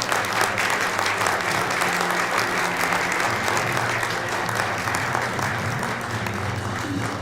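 Audience applauding steadily in a large hall, with background music holding low steady notes underneath.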